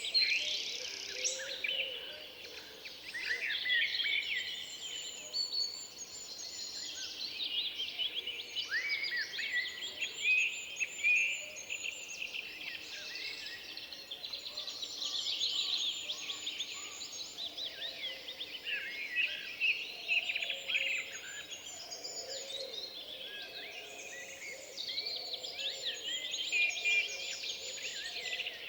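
Several songbirds singing at once in woodland: overlapping chirps, trills and whistles, one after another without a break, over a faint steady hiss.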